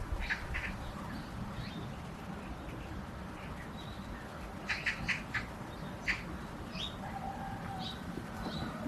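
Small birds chirping in short, high notes, a scattered few at first and then a quick cluster about halfway through, over a steady low background rumble.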